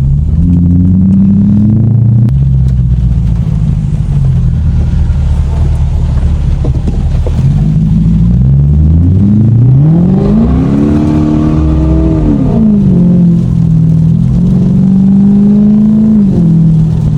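Lexus car engine accelerating hard, its pitch climbing and dropping several times as it revs up and shifts, with the longest and highest pull about two-thirds of the way through.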